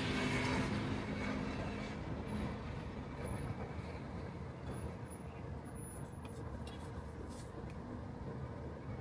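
Steady road and tyre noise from an electric car (Tesla Model 3) driving on wet city streets. A low hum is louder at the start and fades over the first couple of seconds.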